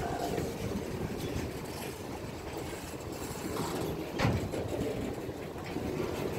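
Freight train boxcars and tank cars rolling slowly past, with a steady rumble of steel wheels on rail. One sharp clank stands out about four seconds in.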